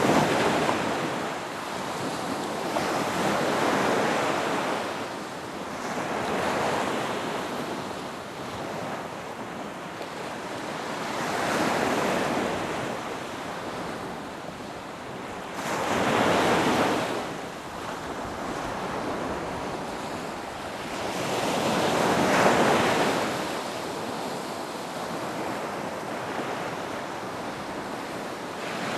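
Ocean waves breaking on a beach, each wave a rushing swell that builds and fades, about every four to six seconds, with a steady wash of surf between them.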